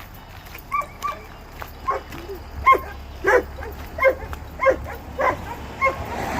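A dog barking: about nine short, separate barks, roughly two a second.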